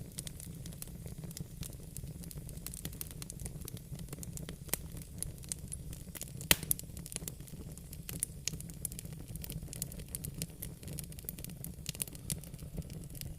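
Wood fire crackling in a fireplace: irregular sharp pops and snaps over a low steady rumble, with the loudest pop about six and a half seconds in.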